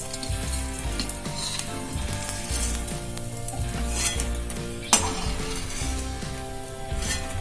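Pieces of edible gum (gond) sizzling as they fry in hot ghee in a steel kadhai, stirred and scooped with a perforated steel spoon that scrapes and clicks against the pan. About five seconds in, one sharp metal clink, the loudest sound.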